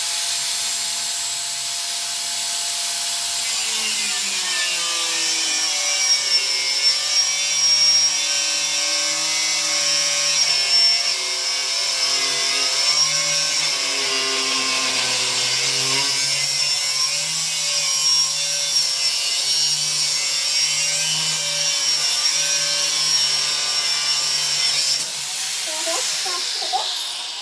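Power tool's abrasive cut-off disc cutting through steel: the motor runs with a steady whine, its pitch sags as the disc bites about four seconds in, and a hissing grind goes on until the cut stops near the end, when the tool winds down.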